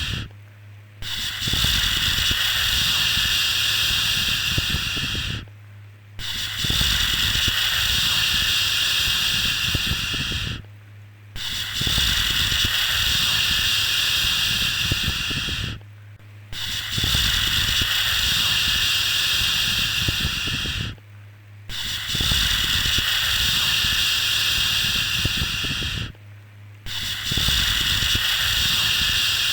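A long, steady 'shhh' shushing sound for soothing a baby to sleep, repeated about every five seconds with a short break between each one.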